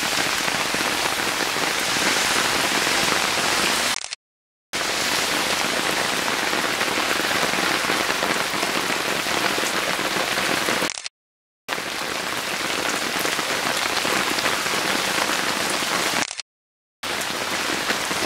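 Heavy rain falling steadily: a dense, even hiss. It cuts out to silence for about half a second three times.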